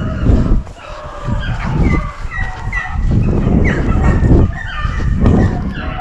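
Pack of beagles baying on a rabbit's trail: many short, overlapping yelps and barks in quick succession, over a heavy low rumble.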